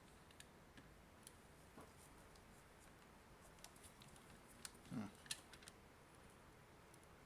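Quiet, scattered small clicks and taps of tools and plastic parts being handled while an AC adapter is taken apart, with a soft knock about five seconds in.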